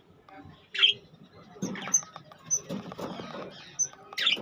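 Budgerigars chirping: two sharp short chirps, about a second in and near the end, with faint high tweets and scratchy clicks in between.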